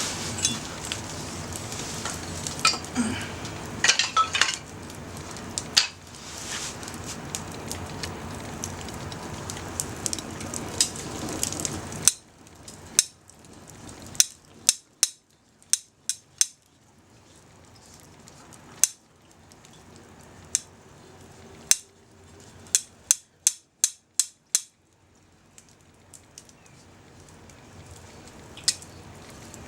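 Sausages sizzling over a small wood fire, with crackles, for about the first twelve seconds; then the sizzle drops away suddenly and only scattered sharp pops and clicks remain.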